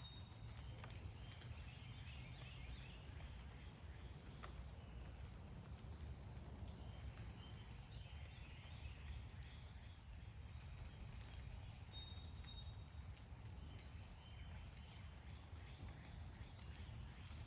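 Faint backyard birdsong: short high chirps every few seconds and a few bouts of twittering, over a steady low background rumble.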